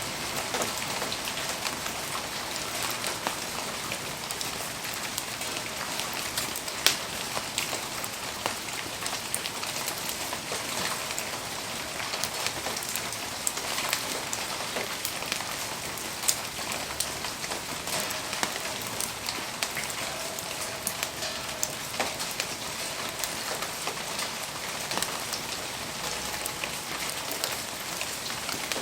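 Steady rain falling on surfaces, with many scattered sharp ticks and a few louder pops, the loudest about seven seconds in.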